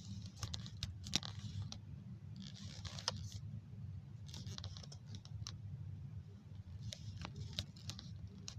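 Light clicking and tapping on a device, like typing, coming in four short bursts about two seconds apart over a steady low hum.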